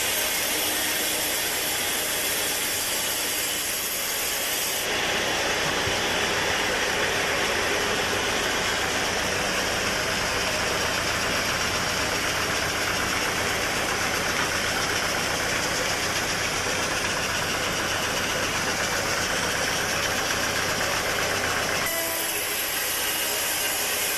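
Sawmill machinery running steadily with a constant engine-like noise. The sound grows fuller about five seconds in and drops back near the end.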